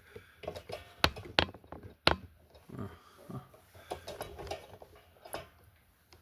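A few sharp clicks and knocks, the loudest about a second and two seconds in, among quieter scattered handling sounds.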